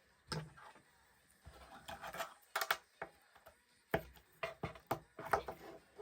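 Items being handled on a hard surface: an irregular series of sharp clicks and knocks, with brief rustling between them.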